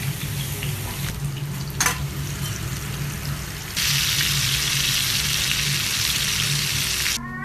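Hot oil sizzling in a pan as sliced shallots and red chillies fry, with a sharp tap about two seconds in. A little under four seconds in it jumps to louder, denser sizzling as prawns fry and are stirred, then cuts off suddenly near the end.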